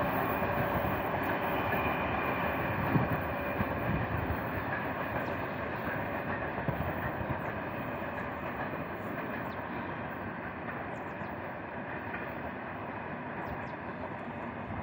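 A freight train with a 4ES5K 'Ermak' electric locomotive pushing at the rear, running away uphill, its steady rumble of wheels and rails fading gradually as it recedes. A brief gust of wind hits the microphone about three seconds in.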